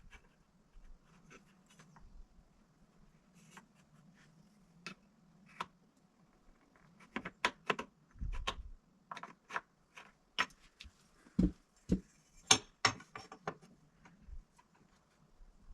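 Hand tools being handled and set against wood: scattered light clicks and taps, sparse at first and coming thicker in the second half, over a faint steady hum.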